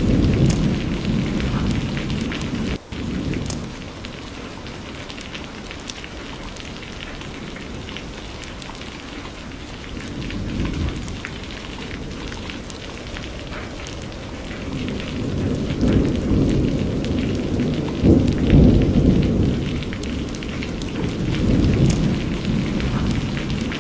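Steady heavy rain with rolling thunder: deep rumbles swell near the start, again briefly in the middle, and longest and loudest through the second half. A brief dropout comes about three seconds in.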